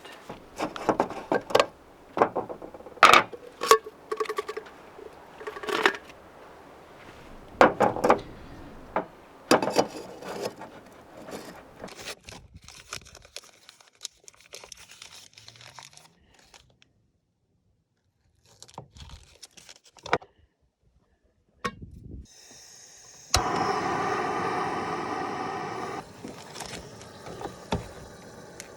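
Camp-cooking prep handling: scattered knocks, clicks, scrapes and crinkling of gear and food packages. Near the end comes a loud, steady hiss lasting a few seconds.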